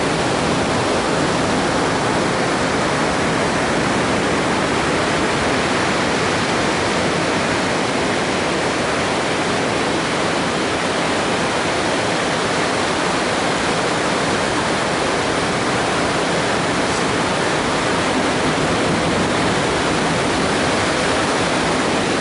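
Continuous rushing of surf breaking along the shore, an even, unbroken noise with no single wave crash standing out.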